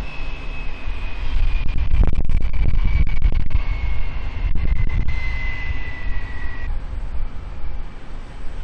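Jet airliner engines passing close by: a loud low rumble with a high whine slowly falling in pitch. The whine stops abruptly about two-thirds of the way through.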